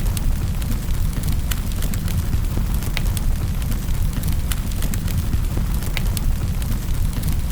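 Wood fire in a fireplace crackling, with sharp, irregular pops and snaps over a steady low rumble.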